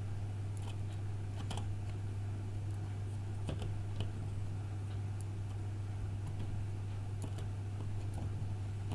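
Steady low electrical hum, with a few scattered light clicks and ticks of small tools and parts being handled in a phone repair.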